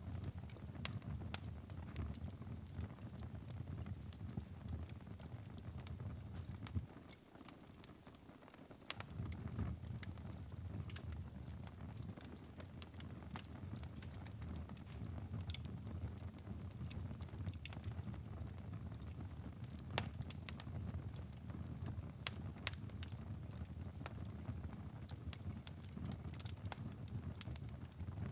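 Wood fire crackling in a fireplace: irregular sharp pops and snaps over a steady low rumble of the flames. The low rumble drops away for a couple of seconds about seven seconds in, while the crackles go on.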